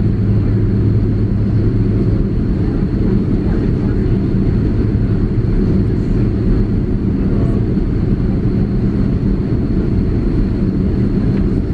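Steady cabin drone of an Airbus A330-300 taxiing on its Pratt & Whitney PW4168A engines, with a low hum and a faint high whine.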